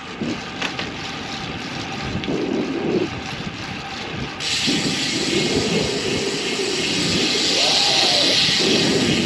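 Wind rushing over the microphone of a moving road bike, with low buffeting swells and tyre noise on damp pavement. About four and a half seconds in, a steady hiss suddenly gets louder and stays loud.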